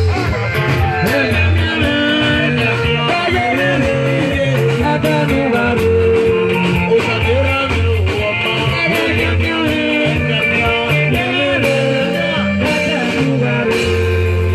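Live band music with electric guitar, bass and drums playing a steady beat, with a voice singing at times.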